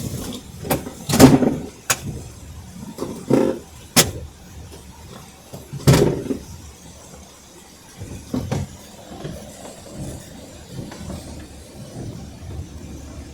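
A car travelling on a snowy road: a low steady rumble with a run of irregular sharp knocks and thumps in the first nine seconds, the loudest a little over a second in and about six seconds in.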